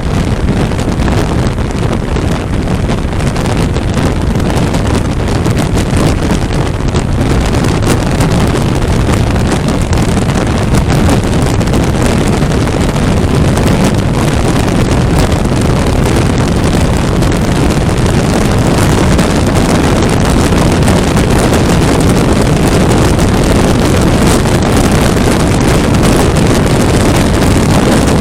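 Wind rushing over the microphone of a 400cc motorcycle riding at highway speed: a loud, steady rush that stays even throughout.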